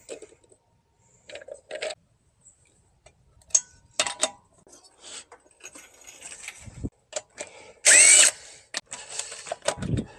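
Power tool, most likely an impact wrench loosening wheel lug nuts, running in one short loud burst about eight seconds in. Scattered metal clicks and clanks come before it.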